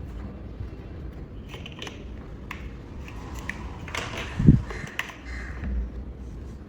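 Plastic building blocks being handled and pressed together: scattered light clicks and rattles, with a dull thump about halfway through.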